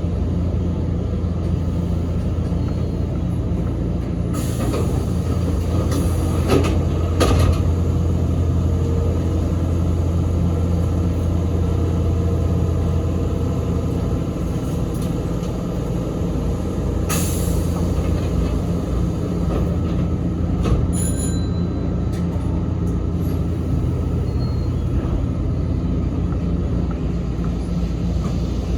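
Sanyo Electric Railway 3050-series electric train running, heard from inside the car: a steady low rumble of motors and wheels, with a few brief clatters from the rails.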